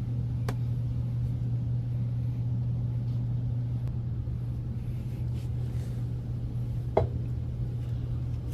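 Steady low machine hum, with a light click about half a second in and a sharper knock about seven seconds in.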